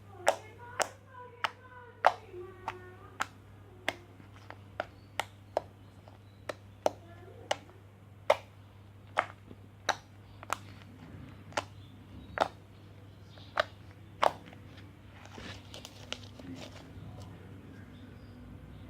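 A run of sharp clicks or taps at an irregular pace, roughly one to two a second, thinning out and stopping about two-thirds of the way in, over a steady low hum. Faint wavering voice-like sounds come in the first few seconds and again around the middle.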